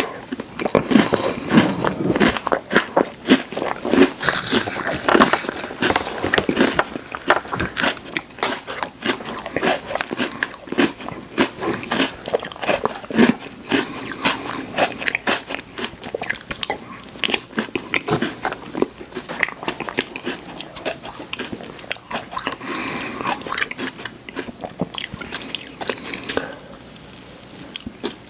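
Close-miked crunching and chewing of crisp cookies: dense, rapid crackling bites, thinning out and quieter near the end.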